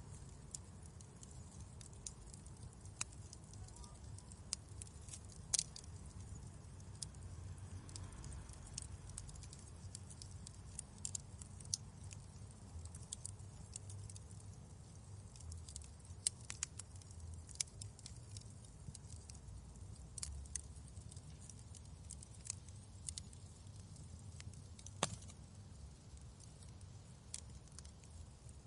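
Wood fire in a fireplace crackling: a low steady rumble of burning with irregular sharp pops and snaps, the loudest about five seconds in and again near the end.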